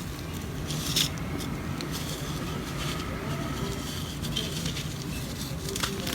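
Dry ocean mud crumbling and crackling softly, with a sharper snap about a second in and another near the end.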